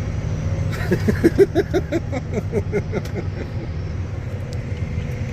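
A person laughing in a quick run of short pitched bursts for about two seconds, over the steady low rumble of a running vehicle.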